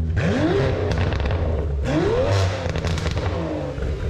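Aston Martin V12 Speedster's twin-turbo V12 through a Quicksilver Titan sport exhaust with race cats, revving up twice and falling back. Sharp pops and crackles come from the exhaust as the revs drop.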